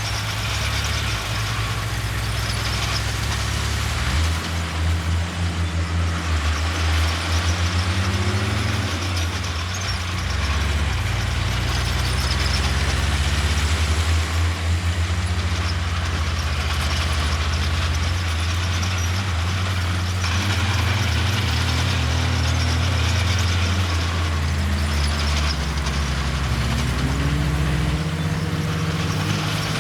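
Heavy diesel engines of a bulldozer and dump trucks working, a steady low drone that revs up and down several times.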